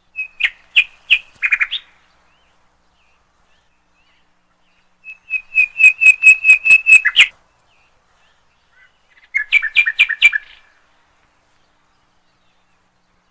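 A small bird singing three short phrases of quick, repeated high chirps, each phrase lasting one to two seconds, with pauses of a few seconds between them.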